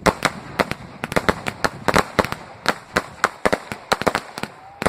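Fireworks going off in quick succession: a rapid, irregular string of sharp bangs and crackles, several a second.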